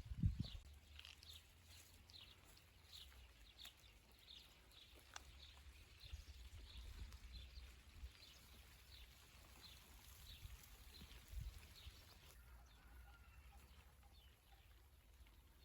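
A small bird calling faintly: a quick series of short, high, falling notes, about two or three a second, that stops about twelve seconds in. A low thump sounds just after the start.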